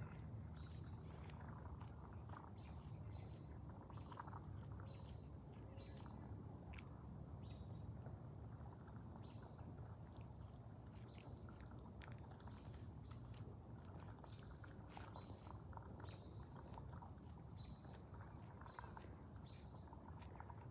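Quiet outdoor ambience: a bird repeats a short, faint, high call about once or twice a second over a low rumble.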